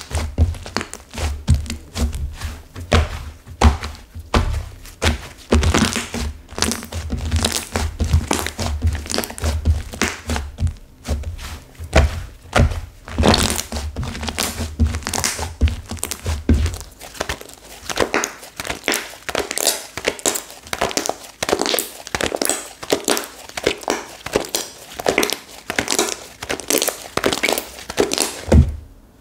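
Hands squishing and pressing a clay-mixed slime whose clay has set stiff. It makes many quick crackling, popping clicks, with soft low thunks through the first half that stop about halfway through.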